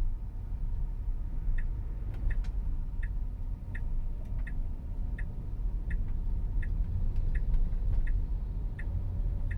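Tesla turn-signal indicator ticking evenly, about three clicks every two seconds, starting about a second and a half in, as the car signals a lane change. Steady low road and cabin rumble underneath.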